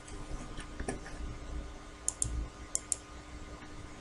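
A few sharp, light clicks, about five spread irregularly, over a faint steady hum.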